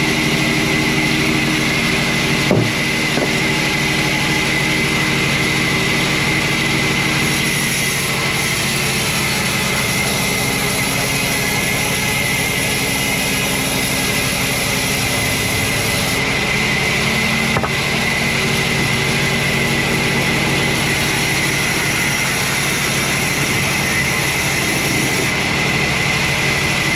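Sawmill machinery running steadily, a constant engine-like hum under a noisy whir, with a brief knock about two and a half seconds in and another later on.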